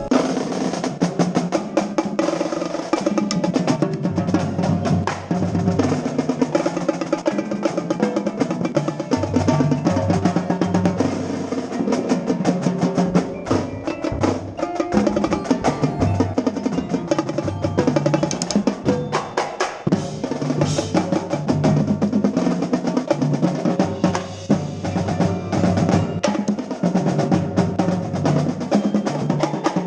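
Marching percussion battery playing a fast, dense passage: snare drums with rolls, quints (tenor drums) and pitched bass drums sounding stepped low notes. Recorded from a quint player's position, so the tenor drums are close.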